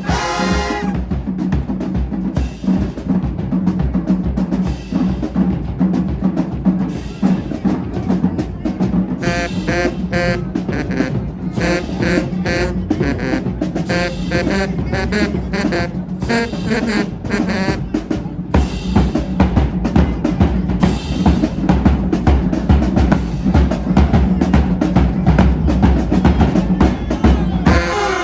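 Marching band drumline playing a cadence, with snare drums rolling and bass drums beating steadily and densely.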